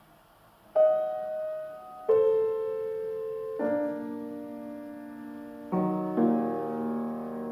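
Piano being played: after a moment of near silence, a slow series of struck chords, each ringing on and fading, the later ones lower and fuller.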